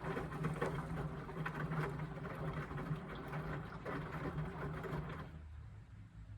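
Indesit washing machine's motor turning the drum mid-wash, a steady hum with a rushing noise over it, which stops about five seconds in, leaving only a faint low hum.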